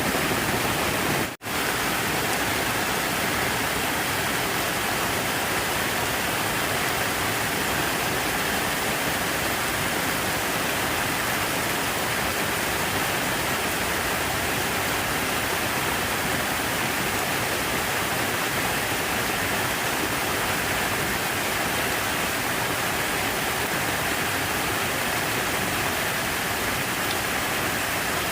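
Water falling and splashing in a steady rush, like a waterfall or fountain. The sound drops out for an instant about a second in, then carries on unchanged.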